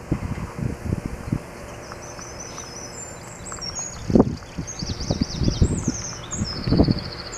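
A small songbird chirping and trilling in short, high phrases from about two seconds in. Low, irregular gusts of wind buffeting the microphone are louder, with the strongest about four seconds in and again near the end.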